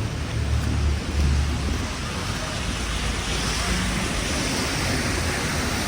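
Wind buffeting the microphone in deep gusts for the first two seconds, over a steady rushing street noise that grows brighter about halfway through.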